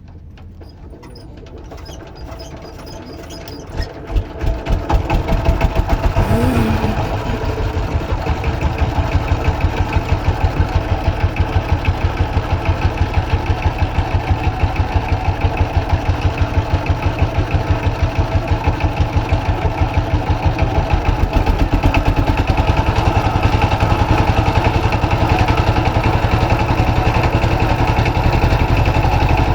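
A boat's engine starts about four seconds in and then runs steadily with an even, fast pulsing beat.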